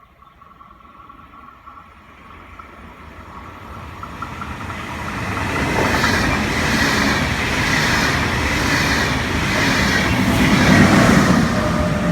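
A train approaching, growing steadily louder over the first six seconds and then running loud at close range. There is a regular wheel clatter about once a second, and a thin high tone rises over the rolling noise.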